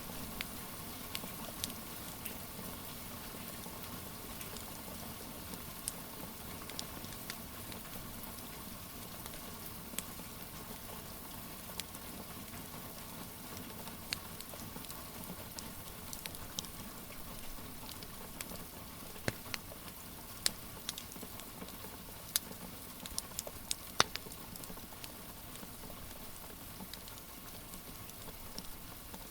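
Steady rain hiss with a fireplace fire crackling over it in irregular sharp pops, a cluster of louder pops a little past the middle.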